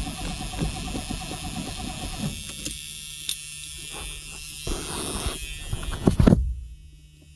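1979 Ford Thunderbird's V8 being cranked by the starter motor, turning over with a fast buzzing rhythm without catching, then cutting off about two seconds in; a few knocks follow. The engine will not fire because no fuel is reaching it, which the owner blames on a failed fuel sending unit.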